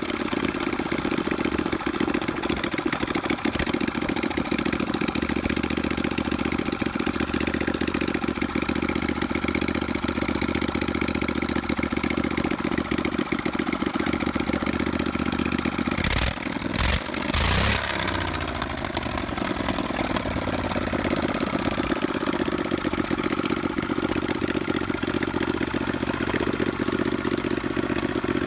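Lifan 2V78F-2A V-twin four-stroke engine idling steadily. About two-thirds of the way through it is briefly revved, then its pitch falls back to idle.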